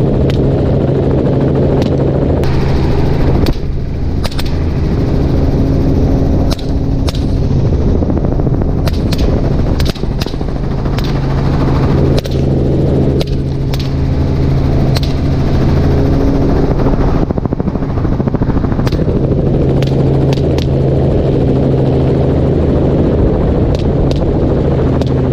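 Many rifle shots fired from a helicopter, some in quick strings and others spaced a second or more apart, over the helicopter's steady running hum.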